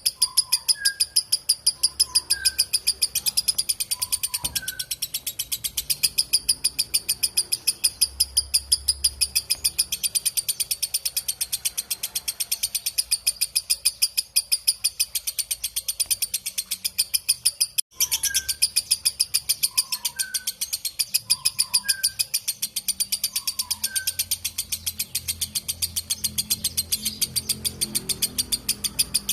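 Lovebird's long 'ngekek' chatter: an unbroken trill of rapid, shrill notes, several a second, cutting out for an instant about two-thirds of the way through. Fainter single chirps sound now and then beneath it.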